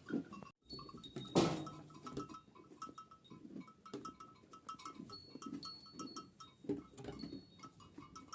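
A flock of Kangal sheep and lambs bleating over one another, with a loud close bleat about a second and a half in.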